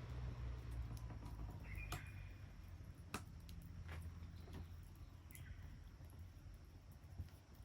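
Wood fire crackling, with scattered sharp pops, over a low rumble in the background. Two short high chirps come about two seconds in and again past the middle.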